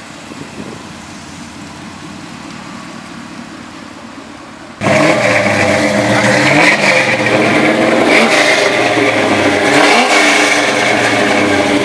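Car engine revving loudly, its pitch rising and falling, after a quieter stretch of steady background noise; the revving starts abruptly about five seconds in.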